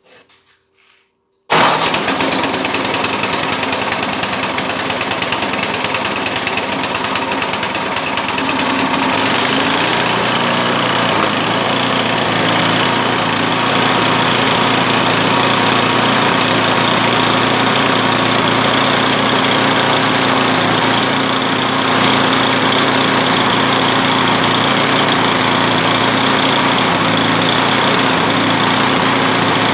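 Tecumseh Snow King single-cylinder engine of an Ariens 824E snowblower running steadily, its carburetor freshly cleaned. The engine sound comes in suddenly about a second and a half in, and its note shifts slightly about nine seconds in.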